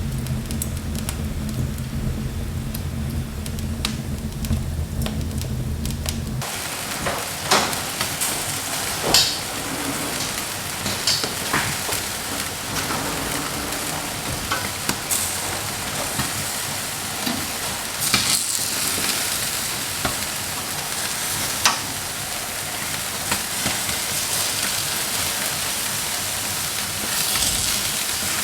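A low, steady rumble for the first six seconds or so. It cuts abruptly to food sizzling and frying in a pan, with frequent short clicks and scrapes of a utensil stirring.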